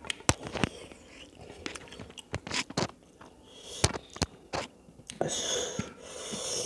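Close-up eating sounds of a person eating rice and fish curry by hand: chewing with many sharp wet clicks and lip smacks, and a longer noisy stretch of chewing about five seconds in.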